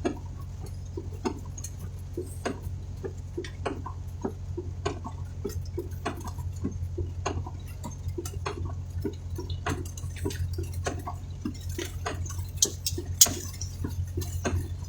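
Raindrops tapping irregularly on a vehicle's roof and windshield, over the steady low hum of the idling engine; one louder tap near the end.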